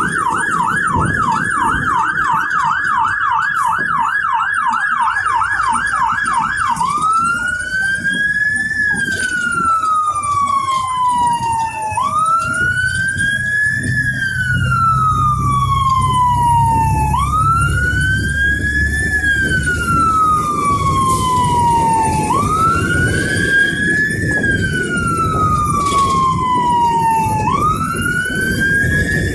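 Fire engine's electronic siren on a code 3 run: a fast yelp for the first several seconds, then switching to a slow wail that rises quickly and falls off about every five seconds, over the low rumble of the engine and road.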